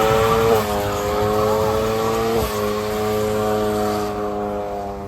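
Car engine accelerating hard in a drag race, its pitch climbing in each gear and dropping sharply with upshifts about half a second and two and a half seconds in, then fading as the car pulls away.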